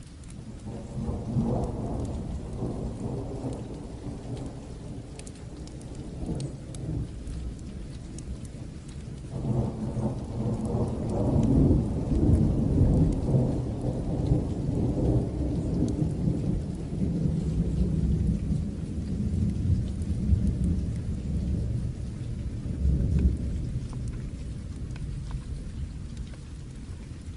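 Steady rain with two long, low rolls of thunder. The first starts about a second in and fades after a few seconds; the second, louder one starts about a third of the way through and rumbles on until near the end.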